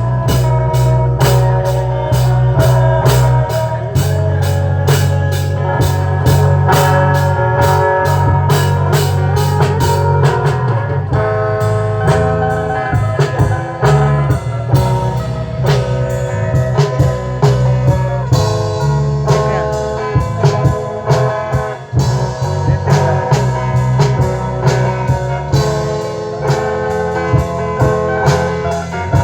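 Band music played loud through a PA sound system during a sound check: drum kit, guitar and heavy bass, with quick, even cymbal strokes for about the first ten seconds before the drumming thins out.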